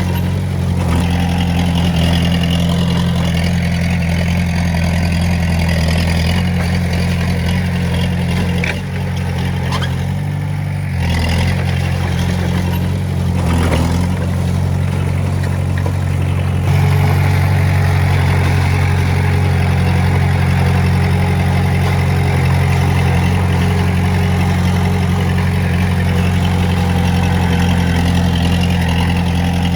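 Komatsu D20A bulldozer's diesel engine running steadily. It dips briefly about nine seconds in and grows louder and stays up from about seventeen seconds in.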